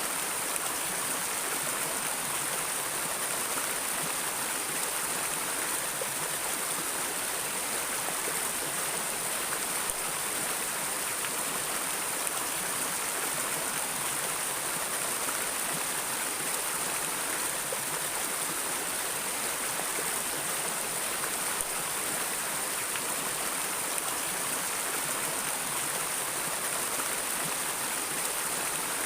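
Water flowing steadily in a river or stream, an even rushing with no breaks or changes.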